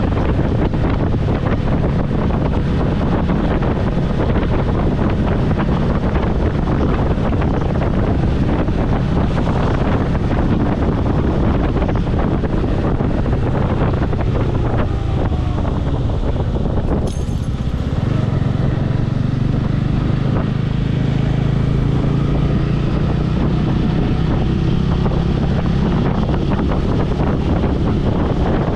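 Wind buffeting a helmet-mounted microphone on a moving motorcycle, with the bike's engine running steadily underneath. There is a short sharp click about 17 seconds in.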